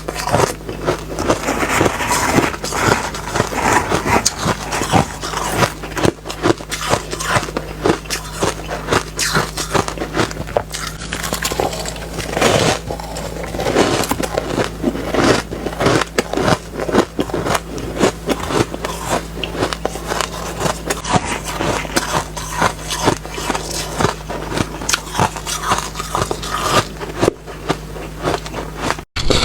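Close-miked biting and chewing of refrozen ice, a dense, continuous run of gritty, sandy crunches over a steady low hum. The sound breaks off briefly near the end.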